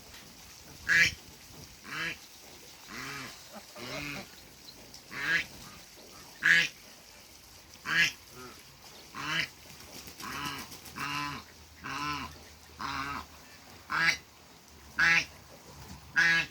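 African geese honking repeatedly, short loud calls about once a second.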